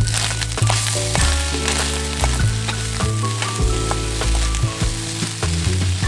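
Food sizzling in a hot wok, stirred with a metal spatula that clicks and scrapes against the pan, over background music.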